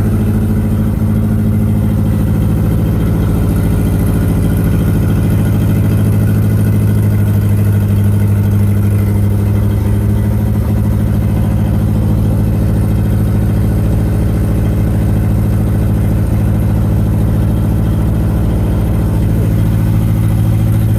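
Car engine of a 1987 Nissan 200SX S12 Silvia running steadily at a near-constant speed, a loud low hum that hardly changes in pitch.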